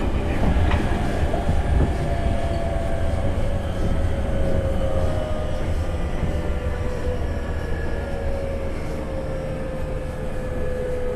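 Running sound inside a JR 205 series 5000 subseries motor car: a steady low wheel-and-rail rumble under a traction-motor whine that falls slowly in pitch as the train slows, with one brief click under a second in.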